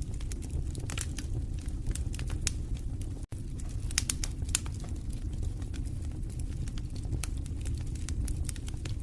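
Wood fire in a fireplace crackling: irregular sharp pops and snaps over a steady low rumble of the flames, with a couple of louder pops about four seconds in. The sound cuts out for an instant about three seconds in.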